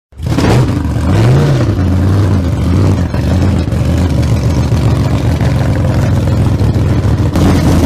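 A vehicle engine running loudly, revved up and back down once about a second in, then held at a steady speed with a rough, uneven note until it cuts off abruptly.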